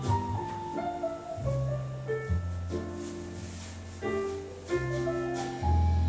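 Slow, calm instrumental music led by piano, with long held bass notes under a melody that steps downward.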